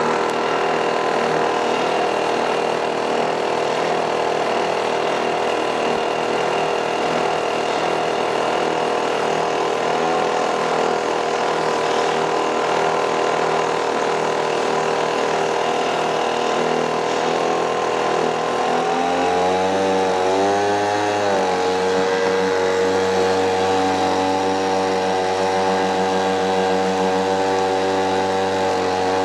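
Small two-stroke brush-cutter engine, converted into a home-made outboard boat motor, running steadily. Its speed drops about two-thirds of the way through, wavers briefly, then settles at a steady lower speed.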